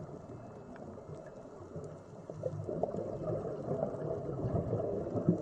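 Underwater ambience: a low, muffled wash of water with a few faint clicks, growing louder about halfway through.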